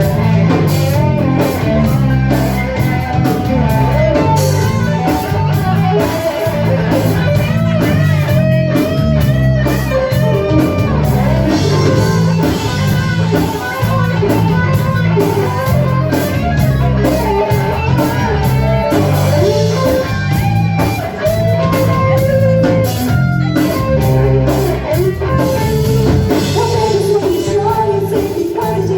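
Live rock band playing loudly: electric guitar carrying the melody over a bass line and drum kit.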